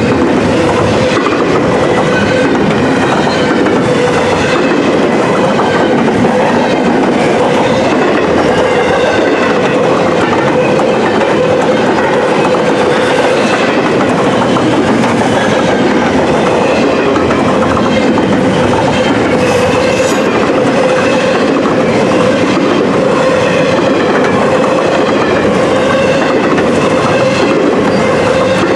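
Double-stack intermodal freight train's well cars rolling past: steady rumble and clatter of wheels on the rails, with a steady ringing tone underneath.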